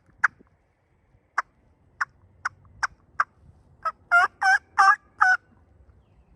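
Turkey calling: a string of short, sharp clucks spaced irregularly, then a quick run of four yelps, each breaking from a lower to a higher note, in the pattern of a hen turkey's clucks and yelps.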